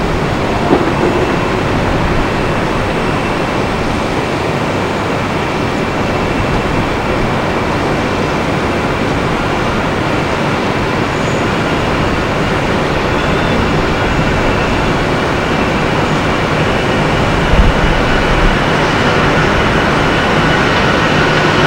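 Airbus A320-214's CFM56 jet engines running steadily: a broad, even roar with a faint steady whine in it, growing slightly louder near the end.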